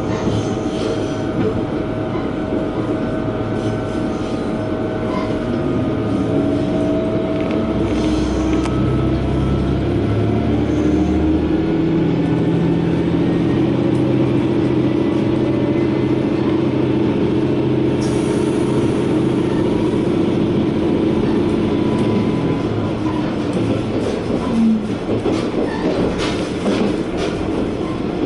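Sankō Line diesel railcar running along the track, heard from inside: a steady engine note over wheel-on-rail rolling noise. The engine's pitch shifts about a third of the way in, and a few short rail knocks come near the end.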